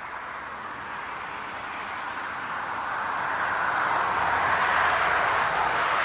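Jet airliner's engines, a rushing noise that swells steadily louder over several seconds and peaks near the end.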